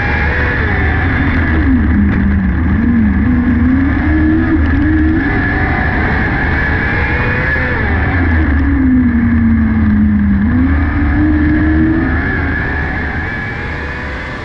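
600cc micro sprint car's motorcycle-derived engine running hard, its pitch dropping twice as it slows and then climbing again as it picks back up. It grows quieter over the last couple of seconds.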